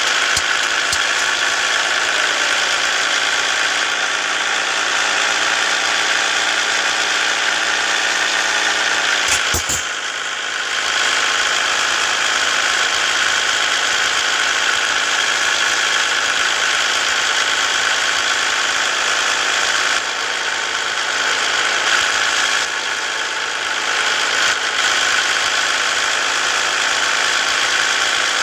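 Scania S 450 truck's diesel engine running steadily under a heavy load. About ten seconds in, its pitch drops sharply and the sound dips for a moment, then it settles into a steady note again.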